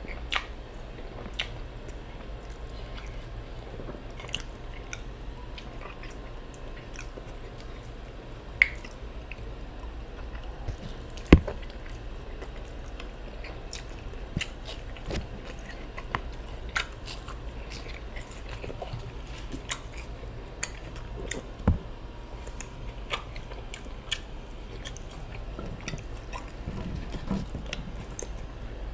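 Close-miked eating sounds: chewing and biting with wet mouth clicks, from a meal of ofada rice and stew with plantains, beef and fish. Scattered sharp clicks run throughout, the loudest about eleven seconds in.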